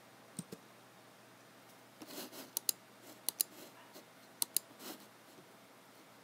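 Computer mouse clicking in quick pairs, three double-clicks, with soft rustles of the mouse sliding on the desk between them.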